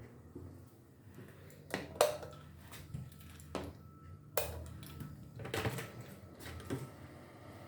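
A series of sharp knocks and clicks, about seven in all, spaced roughly a second apart over a low steady hum, like things being handled or set down in a small room.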